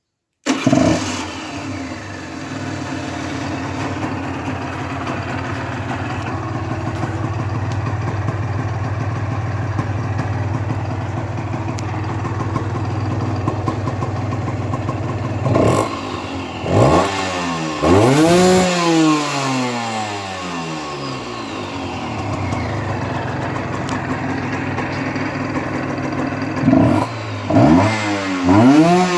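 Honda NSR125's two-stroke single-cylinder engine running through its stock exhaust. It idles steadily, then is revved in short blips that rise and fall in pitch, a few around the middle and again near the end.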